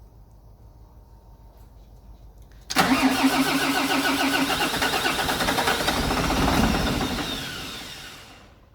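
Volvo FH13 truck's 13-litre straight-six diesel being started: it bursts into sound about three seconds in, runs for about five seconds, then dies away near the end.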